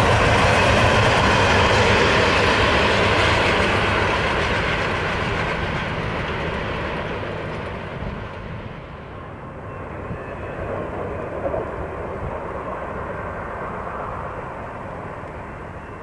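Freight train rolling past, the rumble and clatter of its wheels and cars loud at first and fading steadily over about eight seconds as it moves away, leaving a faint tail.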